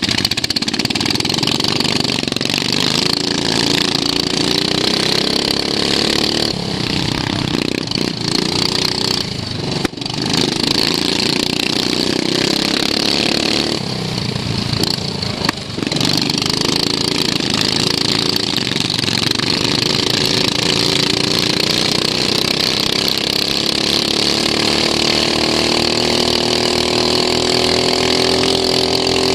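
Racing lawn mower's engine running hard, heard from onboard, easing off twice in the middle and revving back up, then climbing steadily in pitch as it accelerates near the end.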